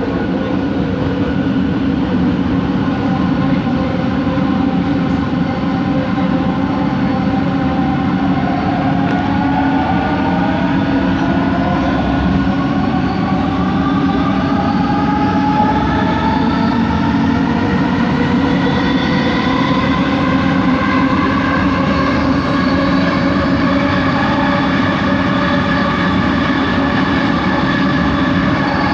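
Bombardier Innovia ART 200 train's linear induction motor drive whining over a steady running rumble. Several whine tones start rising in pitch about a third of the way in as the train gathers speed, levelling off near the end.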